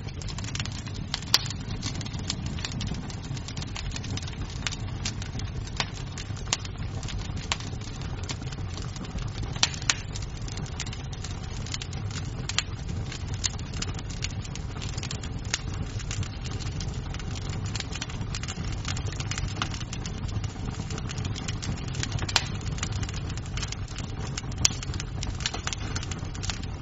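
Wood fire burning in a fireplace: a steady low rumble of the flames with irregular sharp pops and snaps of the burning wood, a few of them louder than the rest.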